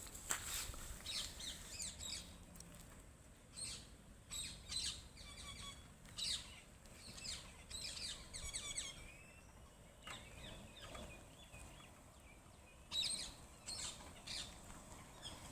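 Birds chirping: short, high calls in scattered bursts with brief pauses between them.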